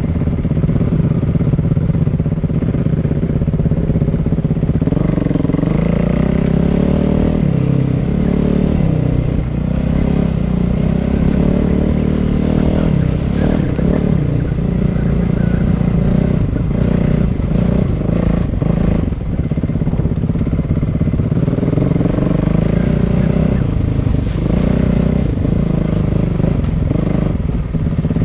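Motorcycle engine running throughout, its revs rising and falling again and again as the throttle is worked.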